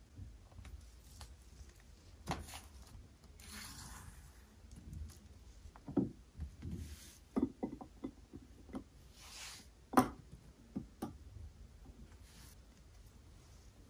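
Household objects being handled while tidying a room: scattered light knocks and taps on hard surfaces, with two brief rustling sweeps.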